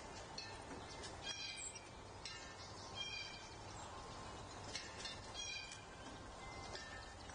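Wild birds calling outdoors: short, harsh, cat-like calls repeated roughly once a second over a steady background hiss.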